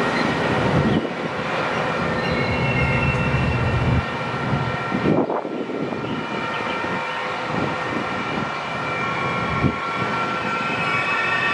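Metra bilevel commuter train rolling past and pulling away, its wheels rumbling steadily on the rails with thin high tones over the noise. The deep part of the rumble eases off about four seconds in as the last cars go by.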